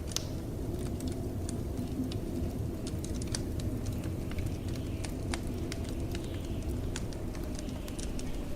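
Wood fire crackling in a fireplace, with sharp irregular pops and snaps, over the steady low rumble of blizzard wind.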